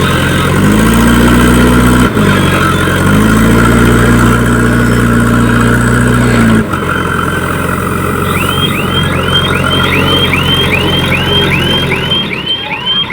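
A heavy diesel engine revs up and holds high twice, briefly and then for about three seconds, before dropping back to idle. About two-thirds of the way in, a reversing alarm starts chirping repeatedly, about two to three times a second.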